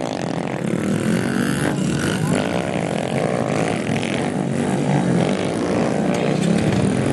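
Small pit-bike engines running and revving, their pitch rising and falling as the throttle opens and closes.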